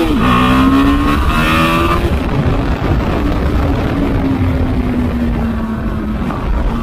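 BMW G310 GS's 313 cc single-cylinder engine pulling under acceleration. The engine note drops with a gear change right at the start, climbs again for about two seconds, then levels off and eases down slowly while cruising. Wind rushes over the microphone throughout.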